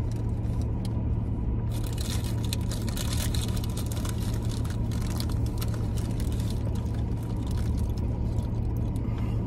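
Steady low hum of a car cabin, with people chewing food and paper food wrappers crinkling and rustling from about two seconds in.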